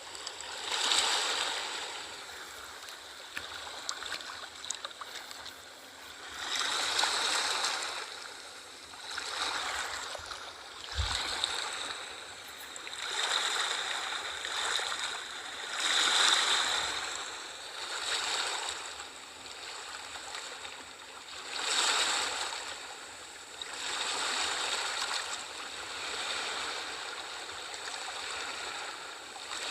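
Sea waves breaking and washing in, the surf swelling and falling away every few seconds.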